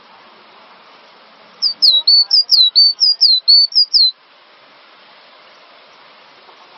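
Cinereous tit (gelatik batu) singing one rapid phrase of about a dozen high whistled notes, sharp down-slurred notes alternating with level ones, lasting about two and a half seconds and starting about a second and a half in. A steady hiss sits underneath.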